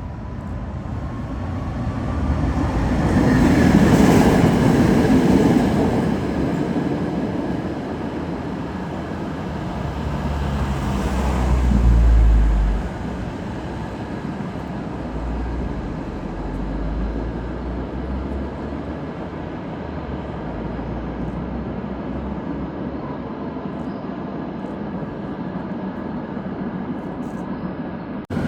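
A Tatra ČKD tram running along street track. The noise swells twice, a few seconds in and again near the middle, with a deep rumble under the second swell.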